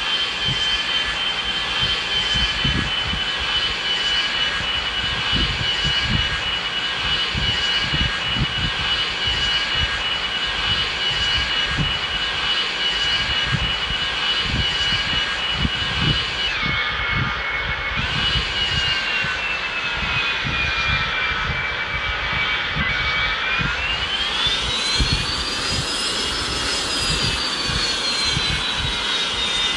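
Boeing 737 jet engines running with a steady whine over a constant low rumble. The whine drops in pitch just past halfway, then rises and slowly falls again in the last quarter as engine thrust changes.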